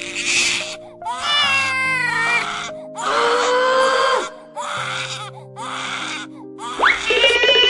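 A digitally produced baby crying in a series of wails, each about a second long, over background music with held notes; a louder, sharper cry starts near the end.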